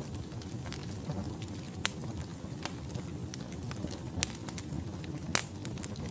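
Wood logs burning in a fireplace: a steady low rush of flame with scattered crackles, and sharper pops about two, four and five and a half seconds in.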